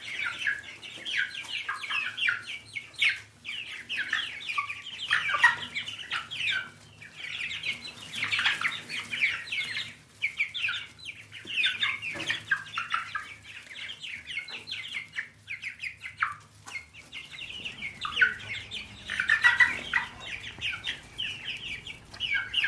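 A brood of ducklings peeping together: a continuous stream of rapid, overlapping high-pitched peeps.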